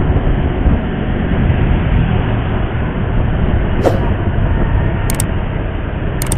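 Steady low rumble of a motorcycle ride in city traffic: engine, tyres and wind noise, with a few brief sharp clicks about four and five seconds in.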